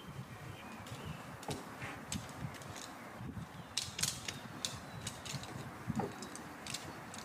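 Camping gear being handled: irregular short clicks, ticks and light knocks of small parts.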